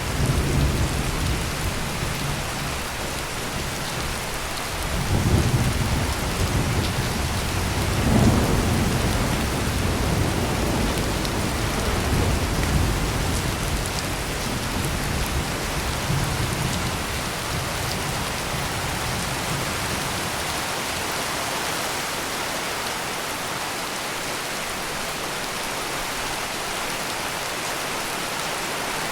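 Heavy rain pouring steadily, with rolling thunder rumbling low in the first half: swells come about five and eight seconds in, then the thunder dies away, leaving only the rain.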